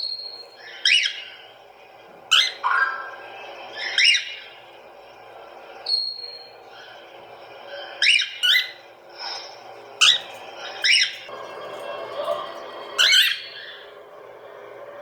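A bird repeatedly giving short, sharp calls that each sweep downward in pitch, about eight in all, at uneven gaps of one to two seconds.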